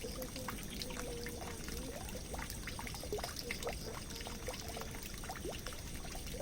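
Water pouring and trickling into a drain: a steady run of water with many small drips, splashes and bubbling plops.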